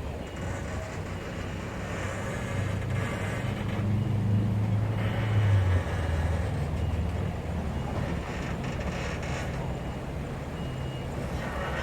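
Heavy truck engine running under load: it builds up from about three seconds in, peaks and then drops back. Short high beeps of a reversing alarm sound at intervals.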